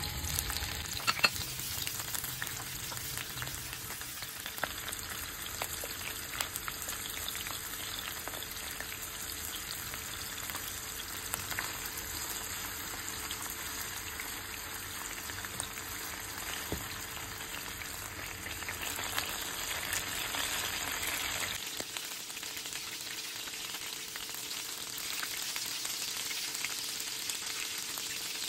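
Shrimps sizzling and frying in hot oil in a frying pan as they are stirred with a spatula, with a few sharp taps about a second in as they are tipped into the pan.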